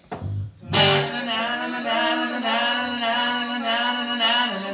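A singer holds one long, slightly wavering note, starting about a second in, after a short strummed chord on guitar.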